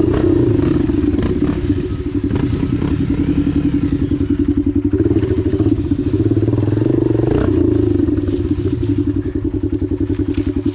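Dirt bike engine running at low revs, the throttle opened and eased a few times, with occasional knocks and clatter.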